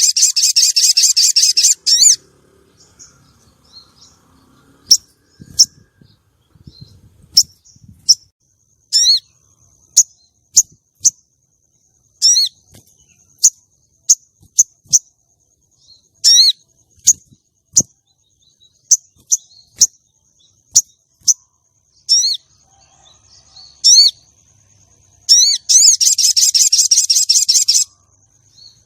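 Female sogon bird calling: a fast, loud trilling chatter, then single sharp chirps about once a second, then another fast trill near the end. This is the lure call used to draw male sogons and bring them into breeding condition.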